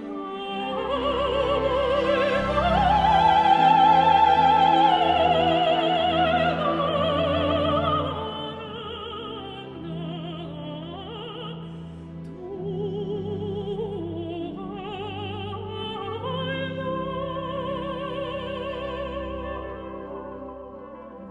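Operatic mezzo-soprano singing a slow song with wide vibrato over orchestral accompaniment. It swells to a loud held high note a few seconds in, then continues in softer phrases.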